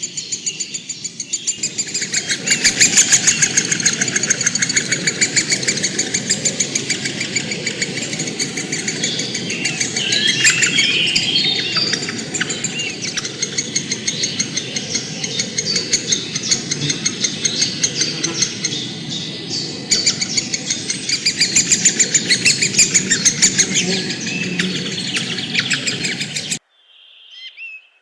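A dense chorus of birds chirping, rapid closely packed calls over a steady low background rumble. It cuts off abruptly near the end, giving way to a few separate whistled bird notes.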